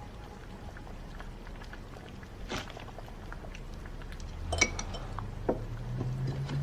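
Tableware clinking at a meal: three light clinks of dishes and utensils, the loudest about four and a half seconds in, over a low steady background.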